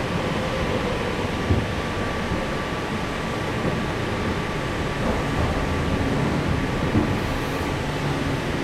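Electric passenger train running along the track, heard from inside the carriage: a steady rumble of wheels on rail with a faint steady whine and a couple of light knocks.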